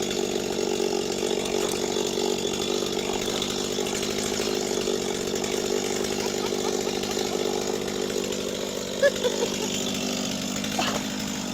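Two-stroke chainsaw running at a steady, unchanging pitch, with a few short squeaks about nine seconds in.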